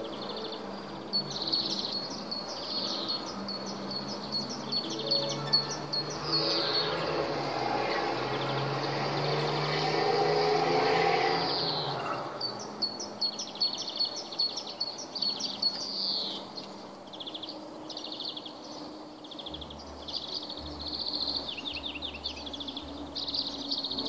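Small songbirds chirping, with quick repeated series of short high notes. About halfway through, a rushing noise swells for several seconds, louder than the birds, and then cuts off suddenly.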